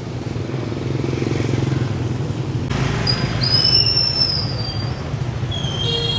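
Motorbike engine running close by amid street traffic, with a high whine about halfway through and a long horn note starting near the end.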